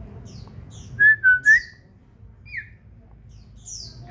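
Pet common iora singing: short, high, downward-slurred chirps, with three loud whistled notes about a second in.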